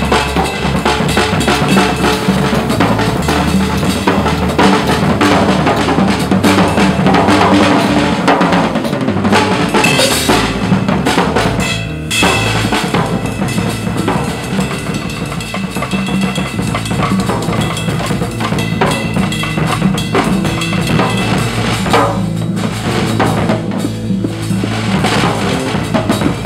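Drum kit played continuously along with a recorded backing track that carries a bass line. The playing drops back briefly about twelve seconds in.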